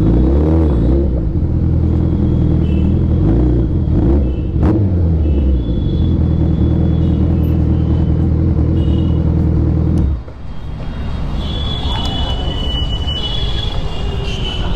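A motorcycle engine idling steadily with a few small pitch wobbles, then switched off about ten seconds in. After that, quieter street noise remains with a thin high tone.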